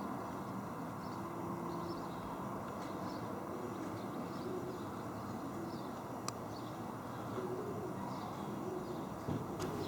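Outdoor ambience: a steady low rumble with small birds chirping now and then over it, and a single sharp click about six seconds in.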